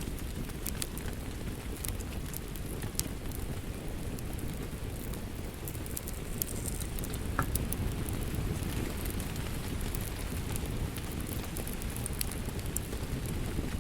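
Fireplace fire crackling: a steady low rumble of flames with scattered sharp pops and snaps.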